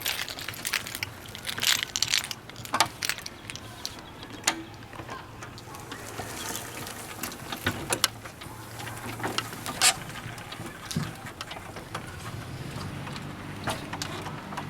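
Power door and ramp mechanism of a wheelchair-accessible Honda Element conversion operating: scattered clicks and clunks, joined about halfway through by a low steady motor hum.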